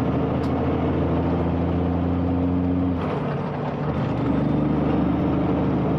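Diesel engine of a Kenworth C500 heavy truck running steadily under way, with a loud Cummins note. About three seconds in the engine note drops out briefly, then picks up again a second or so later, as in a gear change.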